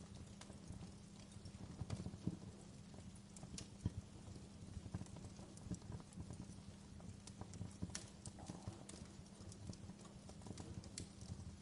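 Wood fire crackling in a fireplace: irregular sharp pops and snaps over a low steady rumble, the loudest pops about two and four seconds in.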